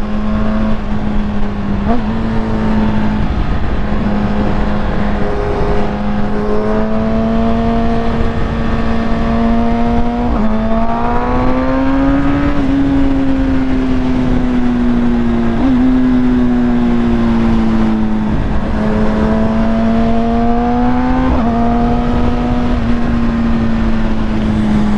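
Kawasaki ZX-10R inline-four engine running through a full Akrapovic titanium exhaust while riding, holding fairly steady revs. Its pitch swells up briefly about halfway through, then eases off, with a few small jumps in pitch.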